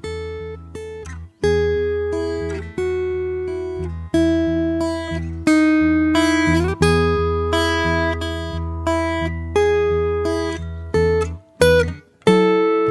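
Acoustic guitar played fingerstyle: plucked notes and chords ringing out over a low bass note, with a slide between notes in the middle and a brief drop-out near the end.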